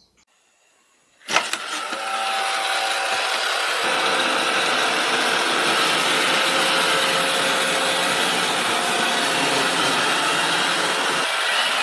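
A click about a second in, then a robot vacuum's motor starts up and runs steadily with a loud, even whirring hiss and a faint hum.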